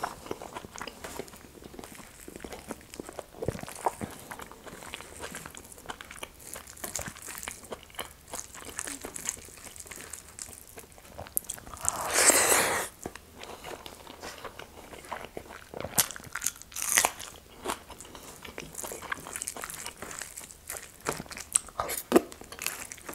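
Close-up eating sounds: a person chewing mouthfuls of rice, dal and greens eaten by hand, with many short clicks, and a louder burst about twelve seconds in as a handful of rice goes into the mouth.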